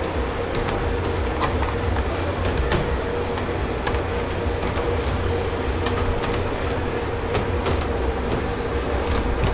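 Steady hum and low rumble of commercial kitchen machinery, with scattered light clicks and clinks.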